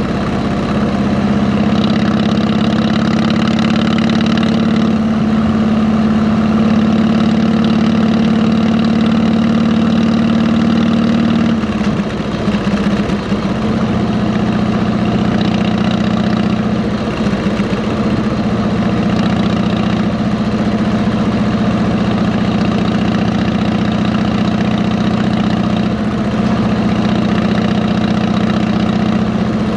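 Harley-Davidson Electra Glide's V-twin engine running through 33-inch fishtail exhausts, a steady low note. Its pitch and level shift about twelve seconds in and again a few seconds later.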